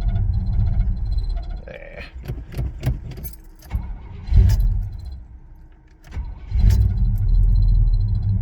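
A Chevy 350 V8 in an S10 Blazer running at idle with a low, pulsing rumble. It fades out in the middle amid clicks and a jingle of keys, then comes back loud about six and a half seconds in.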